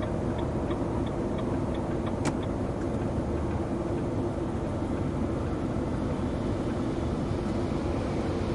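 Steady engine and road noise of a long-haul truck heard from inside the moving cab. A light ticking about twice a second runs through the first two seconds, ending with one sharp click.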